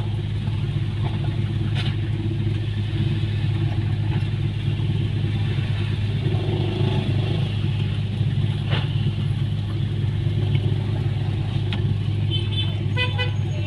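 Steady low engine drone, like a motor vehicle running. Near the end come a few short tonal beeps.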